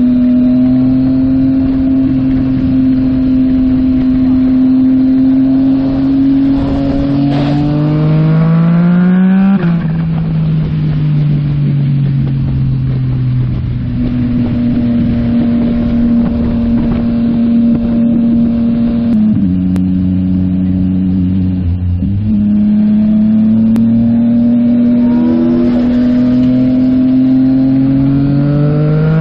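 Yamaha MT-09 SP's 890 cc inline-three running through a Yoshimura AT2 full exhaust while riding. It cruises steady, pulls up in pitch under throttle about seven seconds in, drops at a gear change near ten seconds, then winds down. It holds steady again and accelerates once more from about twenty-two seconds in, with wind noise throughout.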